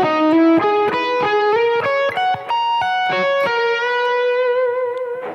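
Electric guitar through a Fractal Audio Axe-Fx II modeller playing a quick, smooth single-note arpeggio over an E major 9 chord with hammer-ons. The phrase ends about three and a half seconds in on one long held note that fades away.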